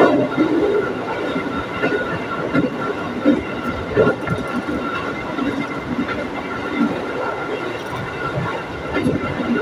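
Electric commuter train running at speed, heard from inside the carriage: a steady rumble of wheels on rail with irregular knocks and a faint steady high tone.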